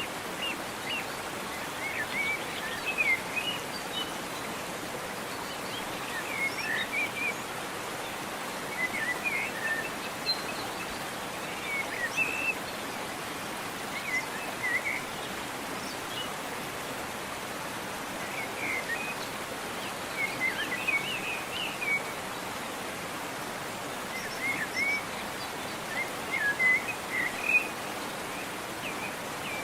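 Steady rush of a waterfall, with small birds chirping in short phrases of quick notes every couple of seconds.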